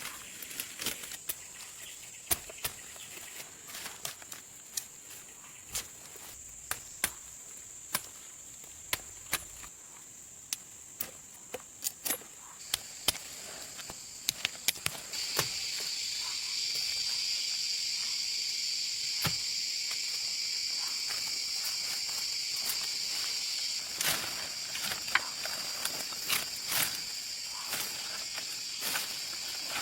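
Insects trilling steadily in a high, even drone, with a second, louder insect chorus joining about halfway through. Scattered sharp clicks and knocks run throughout.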